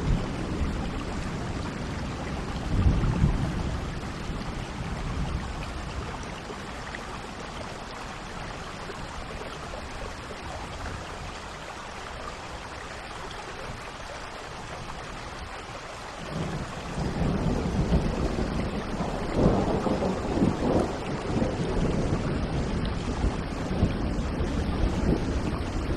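Steady rain with thunder rumbling: a short low roll about three seconds in, then a longer, louder rumble that builds from about two-thirds of the way through and swells several times.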